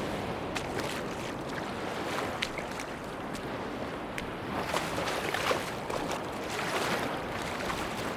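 Sea waves washing onto a beach, as a steady wash with a wave surging in and breaking about halfway through. Scattered light clicks run over the wash.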